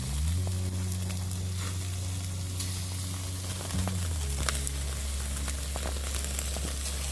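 Meat sizzling on a barbecue grill, a steady hiss with small crackles, under background music whose sustained low notes shift pitch about four seconds in.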